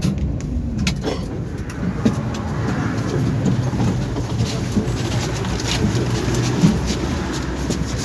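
Tram running along the track: a steady low rumble with scattered clicks and knocks, and a few brief squeaks.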